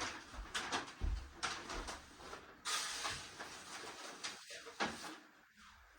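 Handling noises at a workbench: a series of light knocks and clicks, with a short rustle about three seconds in.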